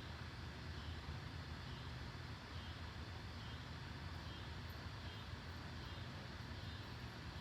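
Steady low rumble with a faint hiss over it: outdoor background noise.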